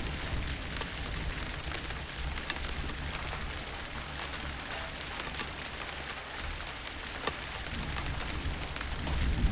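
Steady rainfall with many sharp individual drop strikes, over a low rumble of distant thunder that swells near the end.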